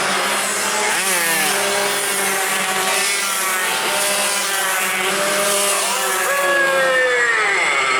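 Several tuned two-stroke 140cc racing motorcycles running at high revs, their engine notes overlapping and rising and falling in pitch as they accelerate and pass; one note falls away near the end.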